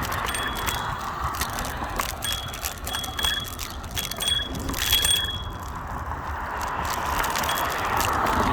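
Bird electric rental scooter rolling over rough pavement: a steady rumble of the small wheels with constant clattering rattles from the deck and stem, and several short high-pitched metallic pings scattered through it.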